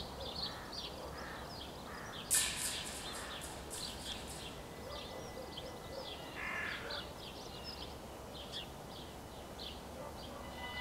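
Small birds chirping, with a louder run of harsh, quickly repeated calls about two seconds in, like a crow cawing.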